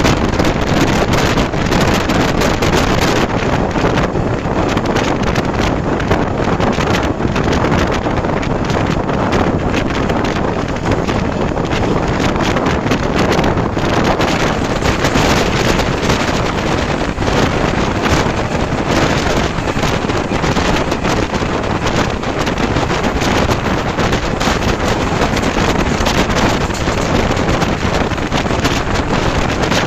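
Steady wind buffeting the microphone over the running noise of a moving train.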